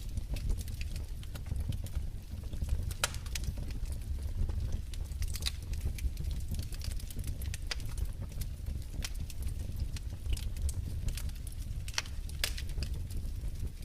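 Wood fire crackling in a fireplace: irregular sharp pops and snaps over a low, steady rumble, with a few louder cracks scattered through.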